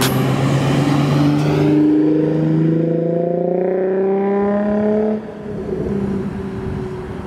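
2004 Infiniti G35 coupe's V6 engine accelerating, its pitch climbing steadily for about five seconds. About five seconds in it drops off suddenly to a quieter, lower engine sound.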